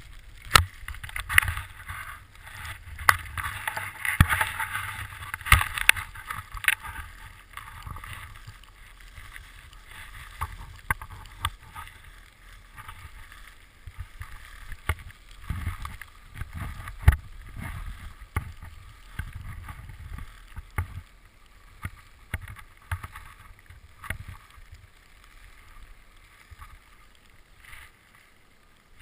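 Snow hissing and scraping under a rider descending an ungroomed ski slope, with wind rumbling on the microphone and frequent sharp knocks as the rider goes over bumps. The hiss is strongest for the first several seconds and then eases.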